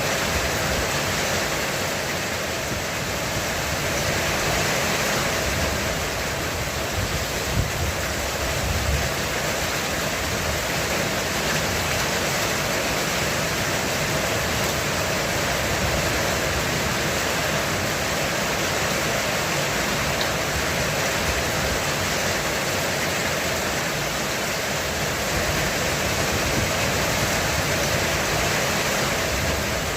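Heavy rain falling steadily on a roof: a dense, even hiss of drops with no letup.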